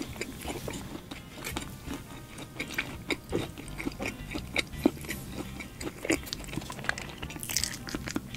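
Close-miked chewing of fried fast food: many small crunches and mouth clicks. Near the end comes a new bite into another piece.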